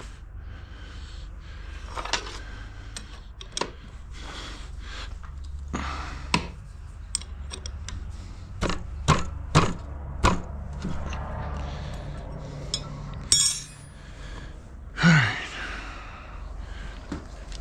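Small metal pipe fittings clinking and knocking as they are handled, picked up and set down, in a series of sharp irregular clicks with a cluster of louder knocks in the middle. A short, low, falling sound comes near the end, over a steady low hum.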